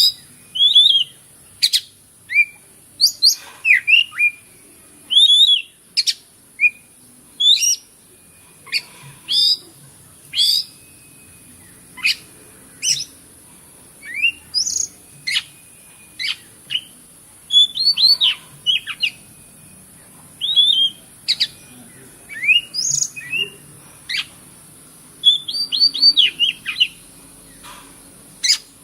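Oriental magpie-robin singing: a string of short, sharp whistled notes and chips, many sliding downward, in quick bursts about a second apart, over a steady high hiss.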